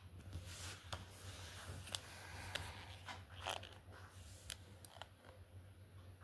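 Light clicks and short scrapes of small objects being handled, the sharpest around two seconds in and at three and a half seconds, over a low steady hum.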